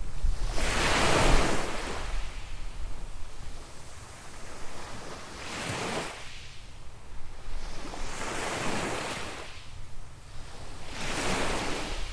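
Small waves washing up on a sandy beach, four surges in turn, each building and fading away. Low wind rumble on the microphone underneath.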